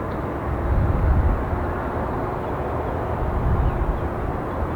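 Wind buffeting the microphone: a steady rumbling noise with a fluttering low end that swells in gusts about a second in and again a little past three seconds.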